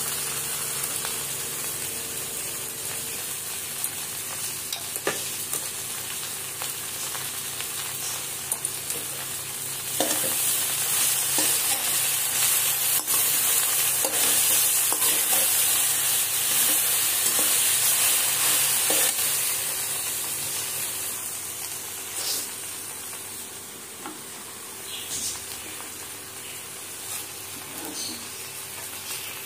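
Chopped okra and sliced onions sizzling in hot oil in a metal wok, turned with a slotted metal spatula that scrapes and clicks against the pan. The sizzle gets louder about ten seconds in and softens again in the last few seconds.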